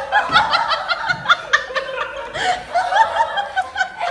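People laughing and giggling, short high-pitched giggles one after another in quick succession.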